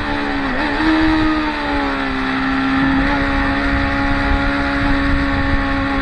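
Track motorcycle engines running at high revs past a corner. The engine note dips briefly about half a second in, then holds steady.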